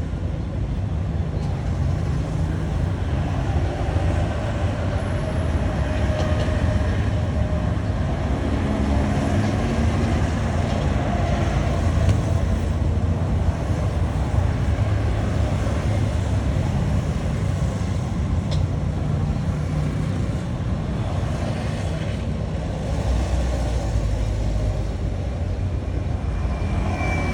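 Steady low rumble with a hiss above it, unchanging throughout.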